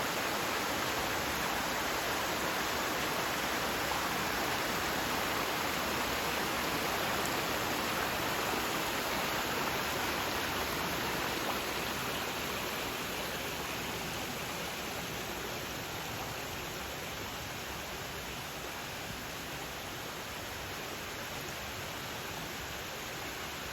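Steady rushing of a flowing stream, an even hiss with no breaks, slowly getting quieter over the second half.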